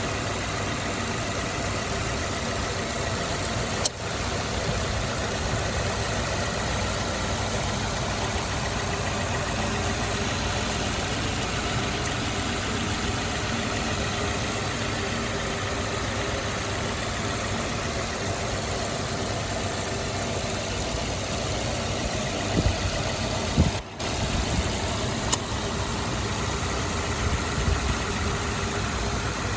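2008 Ford Ranger pickup's engine idling steadily, with a few brief knocks in the last several seconds.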